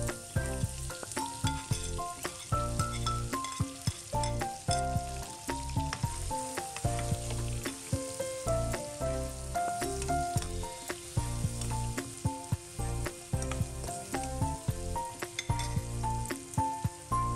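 Sliced lemongrass, kaffir lime leaves, chilies and shallots sizzling in hot oil in a frying pan. The sizzle starts as they hit the oil and goes on while a spatula stirs them, with scattered scrapes and taps of the spatula on the pan.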